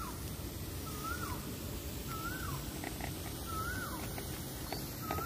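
A bird repeating the same short whistled note about once a second, each note rising and then dipping in pitch, over a faint outdoor background.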